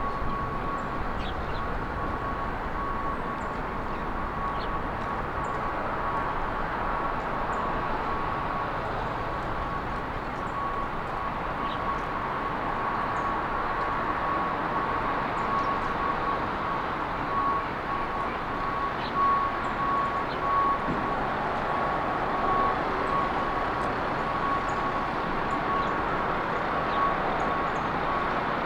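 Steady road traffic noise, with scattered short, high bird chirps and a thin steady tone running through it.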